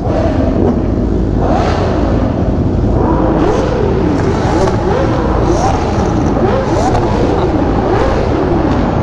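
Sport motorcycle engine revving up and falling back repeatedly while riding, with steady wind rush over the helmet microphone.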